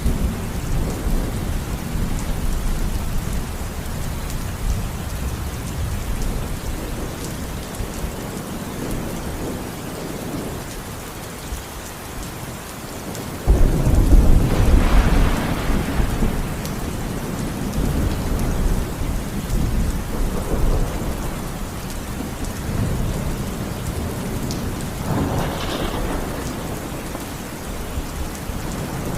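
Steady rain with rolling thunder. About halfway through, a sudden loud thunderclap breaks in and rumbles on for several seconds, and a lighter rumble follows near the end.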